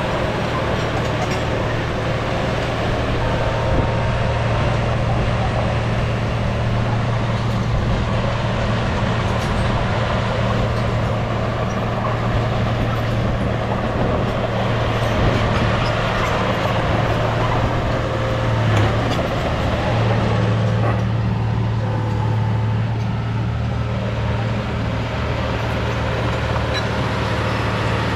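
Diesel engine of heavy earthmoving machinery running steadily under work, a constant low hum with little change.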